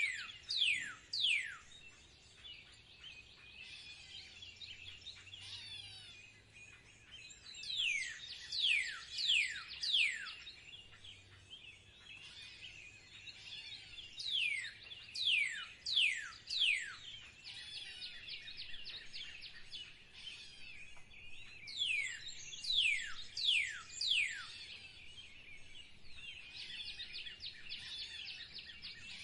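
Songbirds calling. One bird repeatedly gives a run of four or five loud down-slurred whistles, about two a second, with a new run every seven seconds or so. Fainter rapid chattering and trills from other birds go on underneath.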